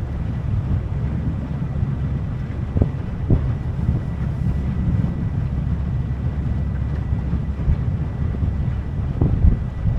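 Wind buffeting the microphone over the steady low rumble of a small boat under way, with a few dull knocks, twice about three seconds in and once near the end.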